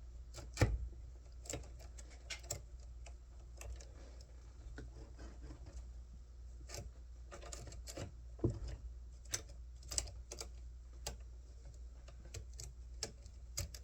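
Irregular light clicks and clinks of small metal parts and tools being handled, one to three a second with no steady rhythm, over a low steady hum.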